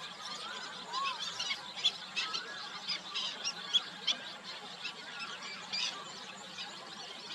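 Birds calling: a dense, busy chatter of short, sharp high chirps, mixed with a few lower whistled calls that rise and fall.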